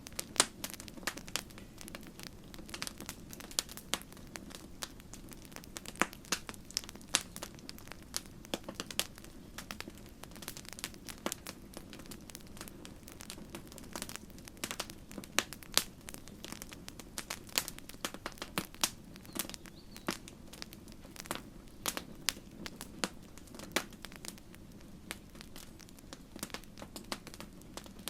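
Wood campfire crackling, with irregular sharp pops and snaps over a low, steady rumble of burning.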